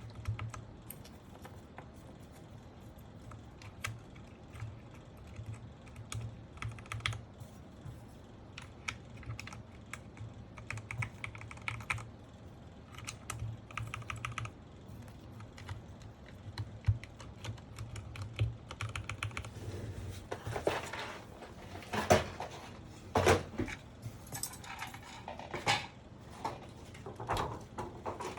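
Keys of a Sky87 mechanical keyboard with Gateron Pro Milky Yellow linear switches being pressed: scattered clacks at first, then denser, louder runs in the last several seconds, over a low steady hum.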